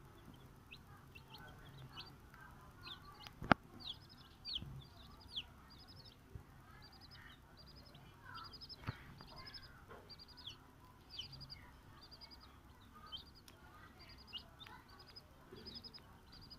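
Young chicks peeping almost without pause: short, high, falling cheeps, some in quick runs of notes. A few sharp taps come through, the loudest about three and a half seconds in.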